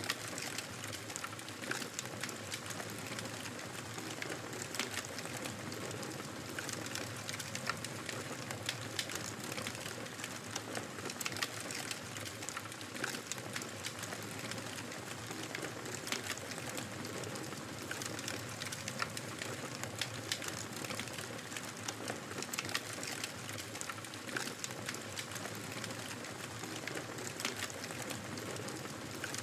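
Wood fire crackling in a fireplace: a steady hiss of burning with frequent, irregular sharp pops and snaps.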